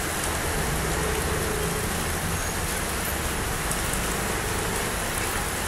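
Heavy rain falling steadily on the ground and on vehicles, a constant hiss, with the low rumble of street traffic running underneath.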